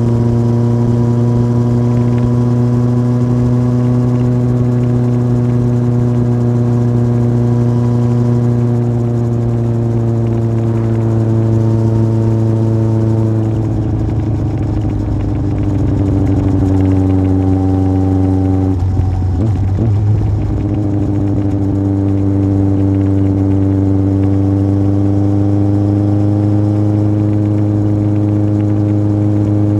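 Yamaha Fazer 1000's inline-four engine running through a MIVV aftermarket exhaust at a steady cruise. The note holds fairly even, then breaks up and shifts pitch twice around the middle before settling back to a steady drone.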